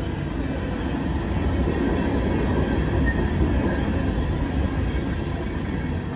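Freight train's covered hopper cars rolling past at close range, steel wheels rumbling on the rails; loudest about halfway through, then easing off as the end of the train goes by.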